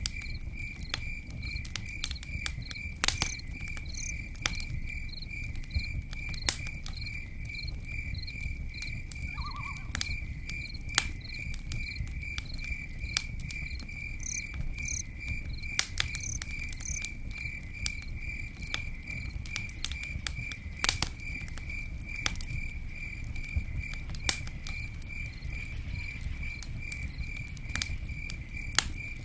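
Campfire burning with a steady low rumble and scattered sharp crackles and pops, the loudest about three seconds in and again around twenty-one seconds. An insect chirps steadily behind it, about three high pulses a second.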